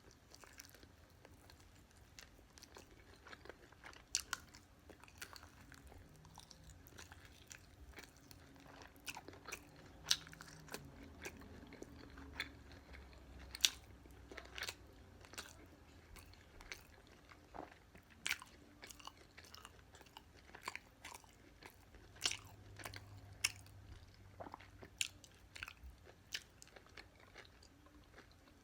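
Close-up chewing and biting of crispy fried BBQ chicken, with many sharp, uneven crunches.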